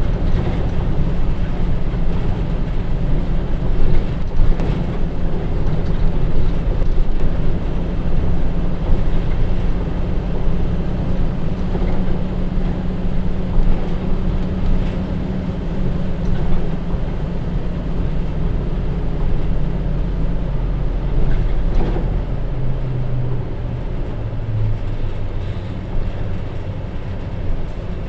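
Hino Rainbow HR bus's J07E diesel engine running under way, a steady drone for most of the stretch; the engine note drops lower in the last several seconds.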